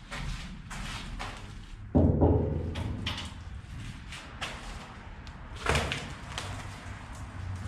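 A heavy thump about two seconds in, followed by a short low rumble, and a sharper knock near six seconds, with lighter knocks and taps between them, inside an old railway car.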